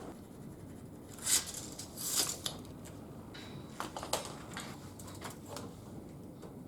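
Light metallic clicks, clinks and two short scrapes of steel bar and hand tools being handled and set up for cutting, with a few sharper ticks about four seconds in.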